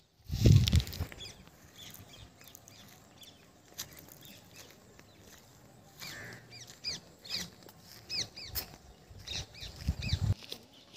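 Small birds calling in a series of short, high, sweeping chirps, over the crunch of footsteps on dry ground. A loud low rumble on the microphone just after the start, and again near the end, is the loudest thing heard.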